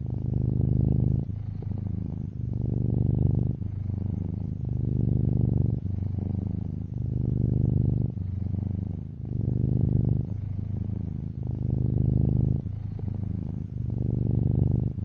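Domestic cat purring steadily and close up. The low purr swells and eases with each breath, loudest about every two seconds.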